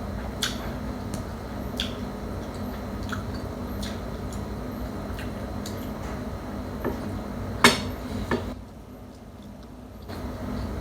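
Scattered sharp clicks of cutlery and dishes on a plate during a meal, with soft eating sounds, over a steady low room hum. The loudest clink comes about three quarters of the way through.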